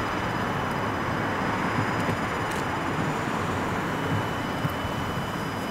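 Red Meitetsu electric commuter train approaching: a steady, even rolling noise with no change or separate sounds.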